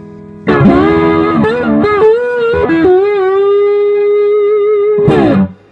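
Overdriven electric slide guitar in open E tuning, played with a glass slide through a Peacock Overdrive pedal into a Fender Hot Rod Deluxe amp. A few sliding notes, then a long held note with slide vibrato, ending in a quick slide down and cut off a little after 5 s.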